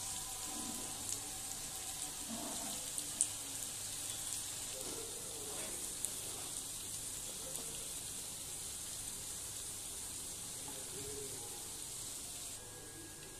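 Mutton pieces frying in oil and red masala in a non-stick pan, a steady sizzle at the last stage of the roast, with the oil separated from the masala. A spoon scrapes and clicks against the pan now and then as the meat is stirred, and the sizzle drops away near the end.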